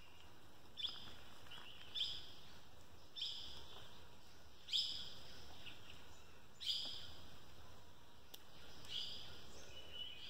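A forest bird calling over and over, short upward-sweeping notes about every one to two seconds, the loudest about halfway through, over a faint steady background hiss of the forest.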